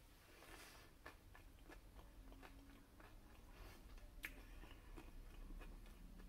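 Faint chewing of a crispy fried apple pinwheel: small, scattered crunching clicks, with one sharper click about four seconds in.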